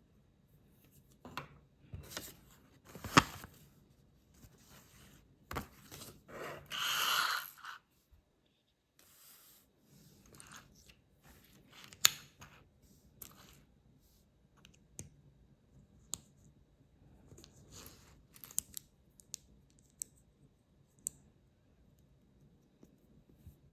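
Plastic LEGO-style bricks being handled and snapped together: scattered sharp clicks and short rustles, the loudest snaps about three and twelve seconds in, with a longer rustling scrape around seven seconds in.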